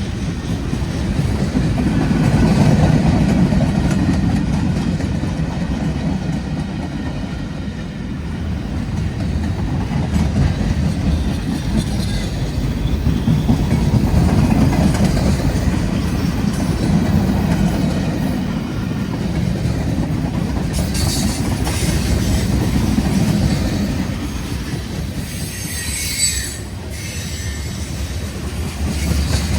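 Freight cars of a CSX manifest train rolling past, a steady heavy rumble with clickety-clack from the wheels over rail joints. Short high-pitched wheel squeals come about two-thirds of the way in and again near the end.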